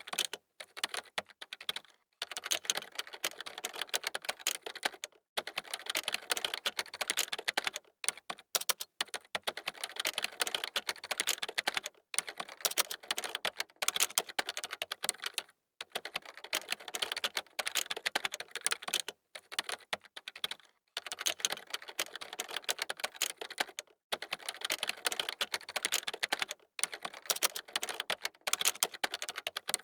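Fast typing on a computer keyboard: dense runs of key clicks, broken by brief pauses every few seconds.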